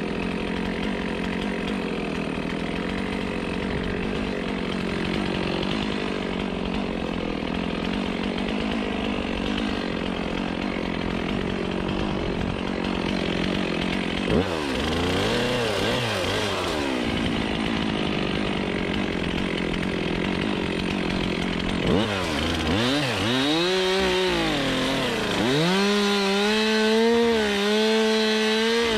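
Chainsaw cutting wood, running steadily under load for about the first half. It then revs up and down, its pitch swinging sharply as the throttle is worked, around the middle and again through the last several seconds.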